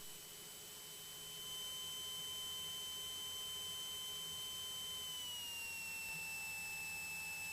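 Steady high-pitched whine heard through the light aircraft's intercom audio while taxiing, several pure tones together that all step down slightly in pitch about five seconds in, as they follow a change in engine speed.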